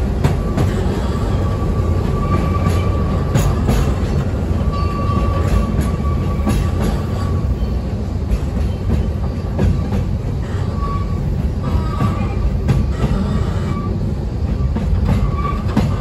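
Ikawa Line passenger car running downhill on the steep Abt rack section, held back by the rack locomotive: a steady low rumble with irregular clicks from the wheels and rails. A high wheel squeal comes and goes several times.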